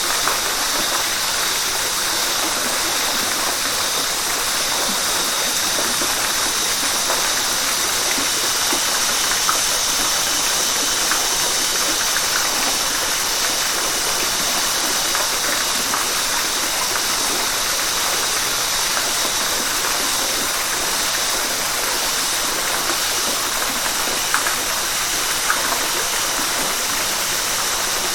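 River water rushing and splashing over rocks: a steady, even rush with occasional small splashes.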